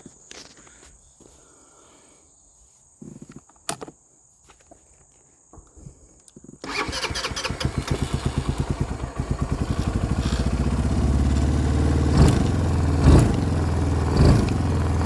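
Four-wheeler (ATV) engine starting about halfway through after a few quiet clicks, then running with a fast, even chugging that smooths out and gets louder. Near the end there are a few short revs.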